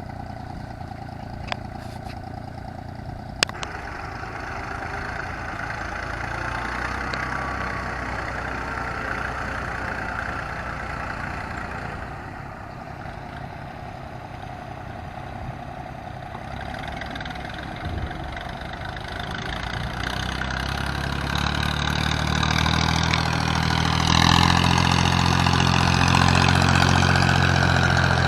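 Diesel engine of a Yanmar YM3000 tractor running steadily as it levels a field, growing clearly louder and heavier in the last several seconds. Two short sharp clicks sound in the first few seconds.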